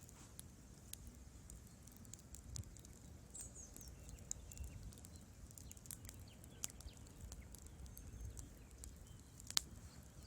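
Wood fire crackling in a fireplace: scattered small pops and snaps over a low rumble, with one sharper pop near the end.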